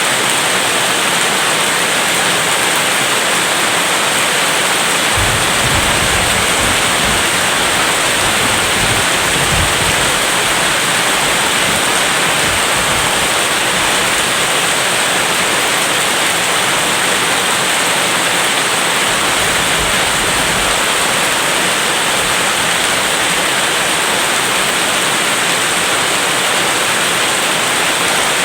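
Steady heavy rain, with low thunder rumbling underneath from about five to ten seconds in and again more briefly later.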